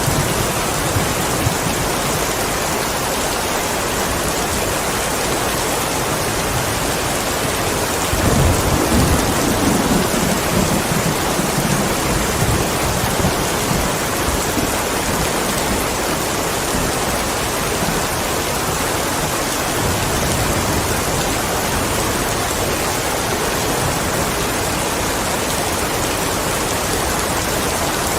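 Steady heavy rain falling as an even hiss. About eight seconds in, a low rumble of thunder swells up and fades away over several seconds.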